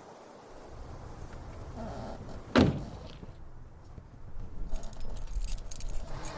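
Handling noises with keys jangling over a low rumble, a single loud thump like a door shutting about two and a half seconds in, and a rattling clatter building near the end.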